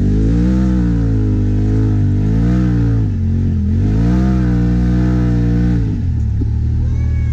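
Polaris RZR Turbo S side-by-side's turbocharged twin-cylinder engine revving up and down in three surges as it spins donuts in the snow, then settling to a steadier, lower speed about six seconds in.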